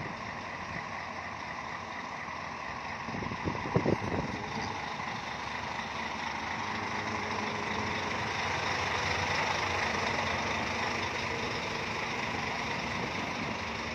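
Heavy Scania bus engine running steadily, growing louder toward the middle and then easing slightly, as a bus moves nearby; a brief knock or clatter comes about four seconds in.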